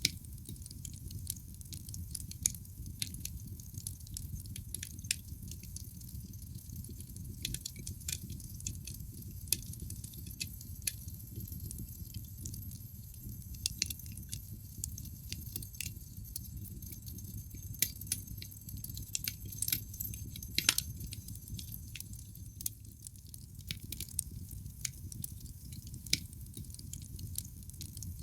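Wood fire crackling in a fireplace: irregular sharp pops and snaps from the burning logs over a low, steady rumble of the flames, with one louder pop about twenty seconds in.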